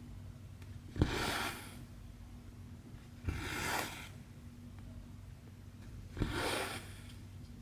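Thread pulled through cross-stitch fabric three times, each pull a short swish of about half a second that starts with a click. A steady low hum runs underneath.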